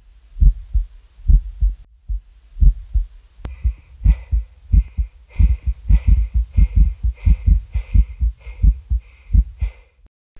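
Heartbeat sound effect: deep double thumps that speed up from about three and a half seconds in, joined by a pulsing hiss in time with the beats, then cutting off suddenly near the end.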